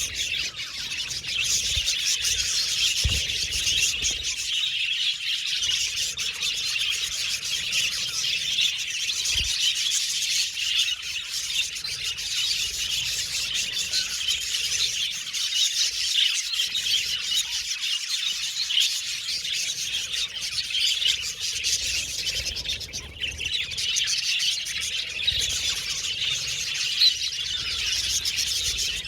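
A group of budgerigars chirping and chattering continuously, with quick overlapping high tweets and warbles.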